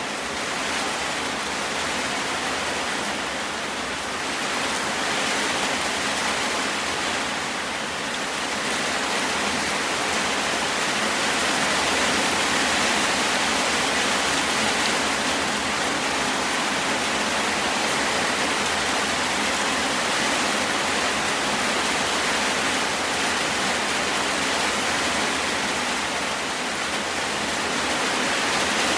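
Rain falling, a steady rushing hiss, a little louder from about ten seconds in.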